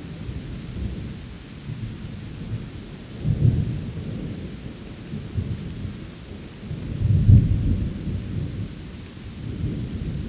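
Thunder rumbling over steady rain, with two stronger rolls about four seconds apart.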